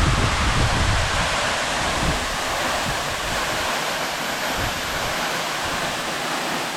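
Dark View Falls pouring down close by: a loud, steady rush of falling water. Wind buffets the microphone with a low rumble in about the first second.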